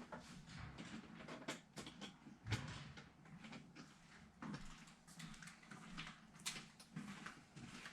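Faint, scattered clicks and knocks of objects being handled, with a sharper knock about two and a half seconds in.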